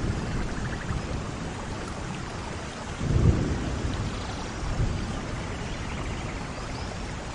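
Steady tropical rain falling, with low rumbles of thunder swelling about three seconds in and again, more faintly, near five seconds.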